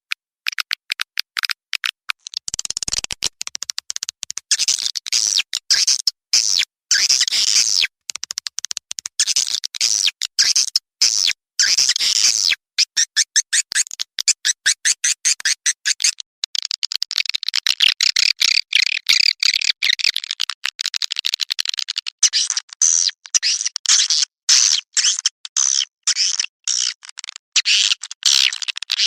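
Swiftlet lure call: a recording of swiftlets twittering in fast, dense, high-pitched chirps. It is chopped by many abrupt short gaps, the edited loop played in swiftlet houses to call birds in.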